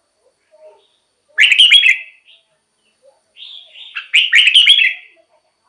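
Red-whiskered bulbul singing loud, short chirping song phrases: one about a second and a half in, and a longer one about three and a half seconds in.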